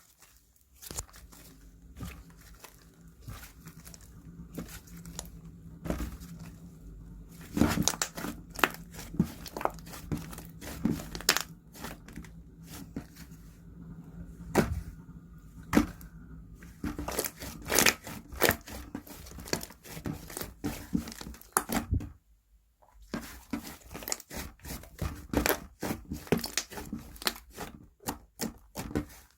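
Slime being squished, stretched and poked by hand, giving rapid, irregular sticky clicks, pops and crackles. A faint steady hum sits underneath for about the first half and stops about 17 seconds in.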